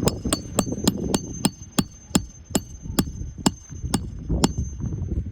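Hand hammer striking roofing nails during an asphalt shingle repair. About a dozen sharp, ringing blows in a steady rhythm that slows slightly, stopping shortly before the end.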